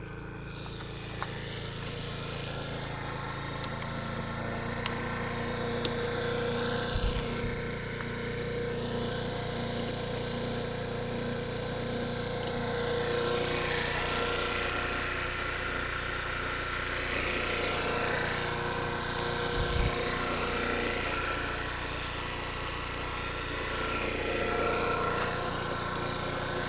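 CPI Popcorn scooter's 2.2 kW engine running steadily, its level swelling a little now and then.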